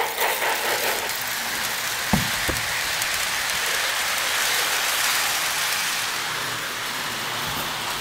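Model train's sound effects giving a long steam hiss that swells toward the middle and eases off, with two soft low knocks a little after two seconds in.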